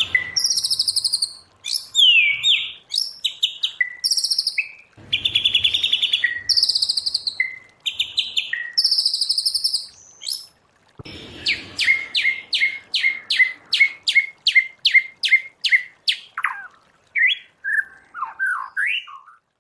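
White-rumped shama singing: loud, varied whistled phrases, then about halfway through a fast run of repeated sharp notes, about three to four a second, ending in sliding whistles.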